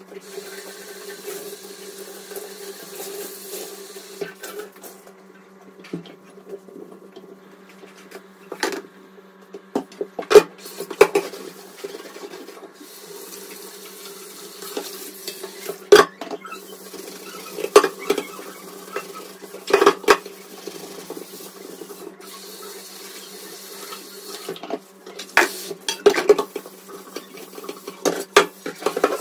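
Dishes and cutlery clinking and knocking now and then during kitchen work, over a steady low hum, with stretches of running water.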